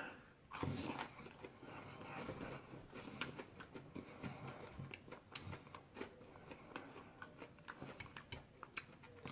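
A person chewing and biting food close to the microphone, with many small wet mouth clicks and smacks. A somewhat louder bite comes about a second in.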